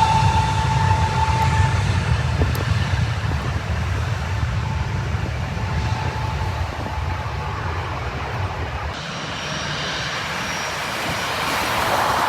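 Jet airliner engines: a low rumble with a steady whine dies away. After an abrupt cut about nine seconds in, another airliner's engine noise grows louder toward the end.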